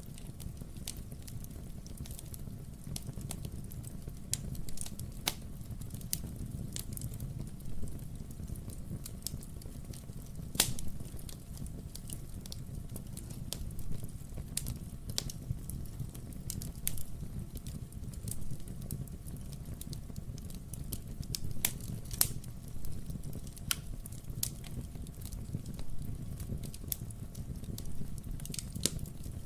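Wood fire burning in a fireplace: a steady low rumble of flame with irregular crackles and sharp pops from the burning logs, the loudest pops about ten and twenty-two seconds in.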